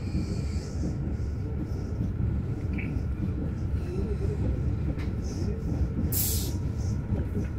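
Passenger train running along the line: a steady low rumble from the moving train, with a brief hiss about six seconds in.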